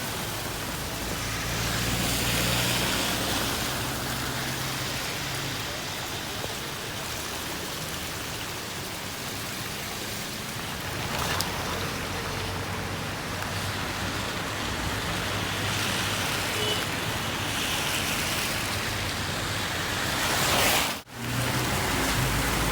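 Steady rain falling, with the sound of vehicles on the road mixed in. The sound drops out briefly near the end.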